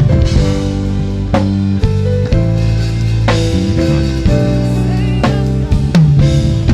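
A band playing: a drum kit with strong hits about every two seconds over held bass and guitar chords.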